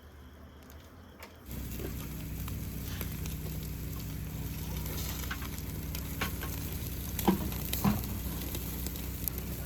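Chicken sizzling as it roasts over a charcoal fire on a homemade barbecue grill, a steady hiss with scattered sharp crackles. The sizzling comes in suddenly about a second and a half in.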